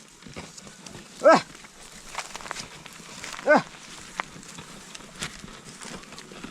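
An animal making two short calls about two seconds apart, each rising then falling in pitch, with a few faint ticks between them.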